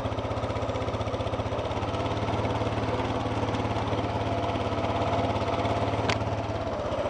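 ATV engine running steadily at low speed with an even, rapid pulsing, creeping along at a walking pace; a brief click about six seconds in.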